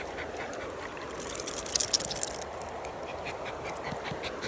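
Water splashing and sloshing as a dog wades in a shallow river, with a louder burst of splashing between about one and two and a half seconds in.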